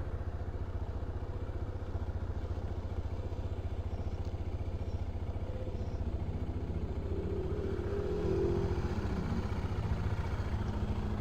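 BMW F650 CS motorcycle's single-cylinder engine running steadily, a rapid low pulsing exhaust note. A higher note comes in briefly about seven seconds in.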